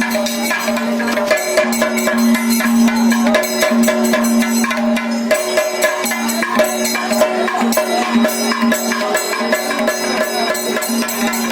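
Kerala temple percussion ensemble playing: fast, dense drum strokes and cymbal clashes over a steady held note.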